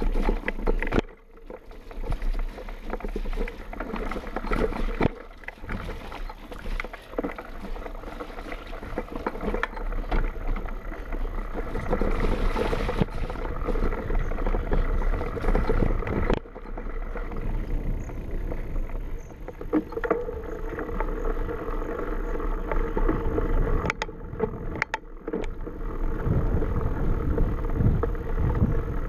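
Ride noise from a helmet- or bike-mounted camera on a mountain bike descent: wind rushing over the microphone mixed with tyres rolling and the bike rattling, cut off abruptly several times.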